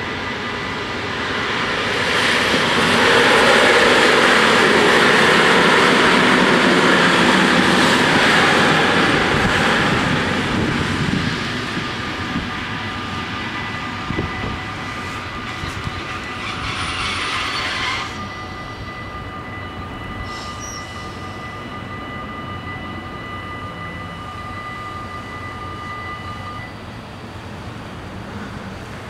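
A Mat '64 electric train passing over the level crossing, loudest during the first ten seconds or so and then fading away. The crossing's warning bells ring steadily alongside and stop near the end.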